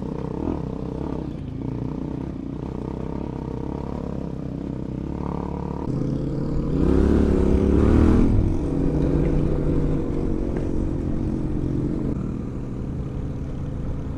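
Adventure motorcycle engine running along a dirt trail. Its pitch rises and it gets louder as it revs up about halfway through, then eases back to a steadier pull.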